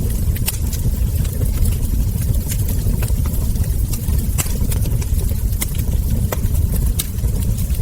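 Wood fire burning: a steady low rumble with irregular sharp crackles and ember pops, several a second.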